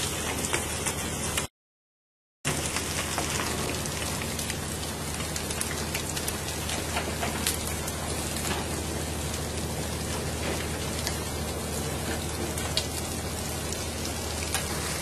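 Steady patter of rain falling on a surface, a dense crackle of small drops over a low steady hum. It cuts out completely for about a second near the start, then resumes unchanged.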